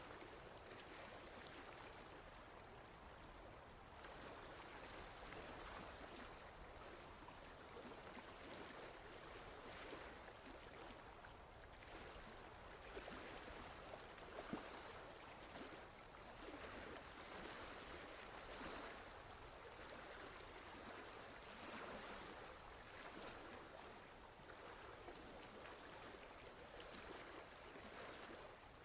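Faint running water of a stream: a steady, gently fluctuating rushing hiss.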